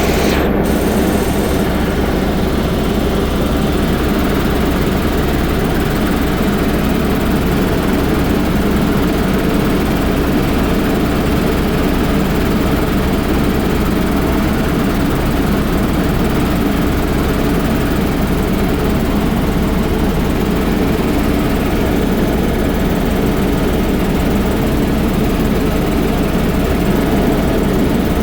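Sightseeing helicopter in flight: loud, steady engine and rotor noise with a deep drone underneath, unchanging throughout.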